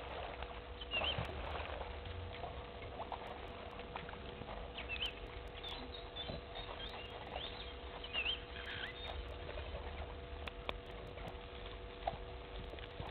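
Scattered short, high bird chirps over a low rumble and a faint steady hum.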